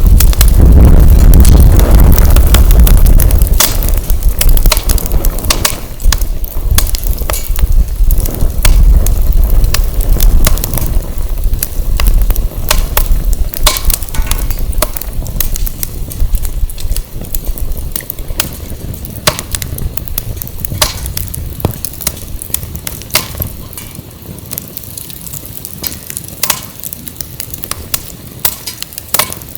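Firewood burning, crackling with scattered sharp pops and snaps. Wind buffets the microphone with a heavy low rumble that is strong in the first half and eases off after about eighteen seconds.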